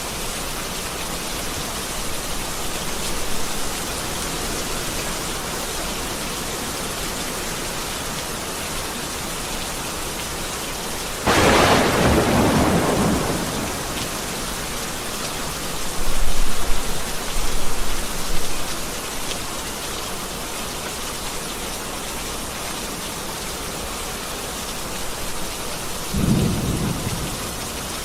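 Heavy rain falling steadily in a thunderstorm. About eleven seconds in a sharp thunderclap breaks and trails off, followed a few seconds later by deep rolling rumbles of thunder, with a smaller rumble near the end.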